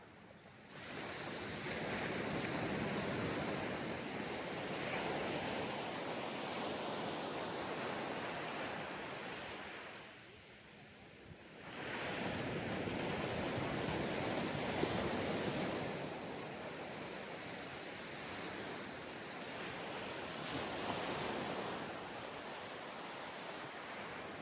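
Ocean waves breaking on a sandy beach, the surf swelling and falling back in long washes, with a lull about ten seconds in before the next wave builds.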